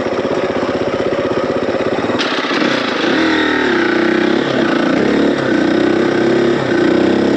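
Dirt bike engine running under way on a trail. From about three seconds in, the revs rise and fall repeatedly.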